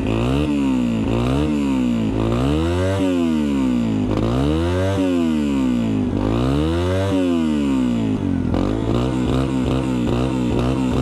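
Yamaha TTR 125's single-cylinder four-stroke engine on its stock exhaust, revved up and down in slow swells about every two seconds. In the last few seconds it drops to a low, wavering idle.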